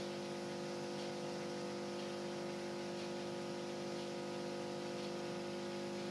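Beko dishwasher's drain pump running with a steady hum at the start of the wash program, pumping out the water left in the sump.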